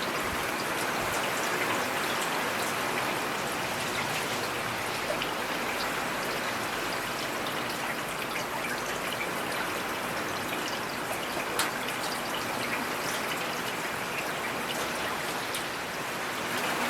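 Steady rain falling: an even hiss with the patter of individual drops, one sharper drop hit about two-thirds of the way through.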